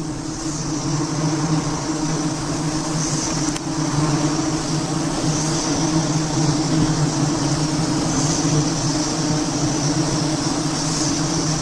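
A swarm of wild honeybees humming steadily at a low pitch, with a high insect buzz rising and falling every few seconds.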